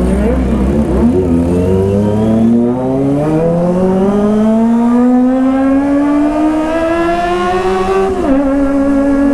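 Kawasaki ZX-25R's 250 cc inline-four engine pulling hard under acceleration, its pitch climbing steadily for several seconds. About eight seconds in it drops sharply with an upshift, then starts rising again.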